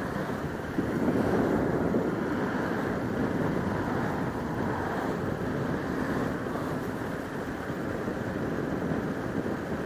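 Steady rush of wind and road noise on a helmet-mounted camera as a Bajaj Pulsar RS200 motorcycle coasts with its engine in neutral. The noise rises slightly about a second in.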